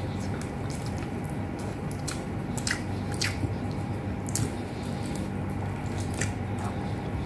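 Close-up chewing of soft beef and eggplant with rice, with wet mouth clicks and smacks scattered throughout. A steady low hum runs underneath.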